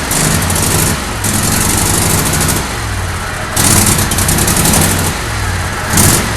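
John Deere L130 lawn tractor's Kohler 23 hp V-twin running just after starting, its sound swelling and dropping unevenly every second or so. It has just fired up after its stuck carburetor float was freed.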